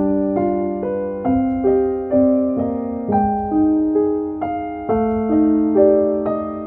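Background music: a gentle piano playing slow broken chords, with a new note struck about every half second and left to ring.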